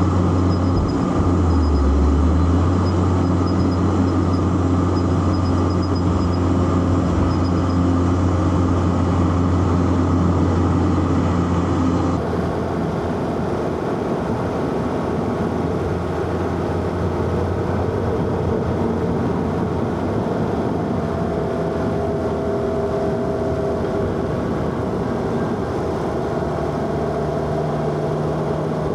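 Inline-four car engine running steadily under way, with road and tyre noise. About twelve seconds in the sound changes abruptly to a quieter, duller mix, and later a faint whine slowly sinks in pitch.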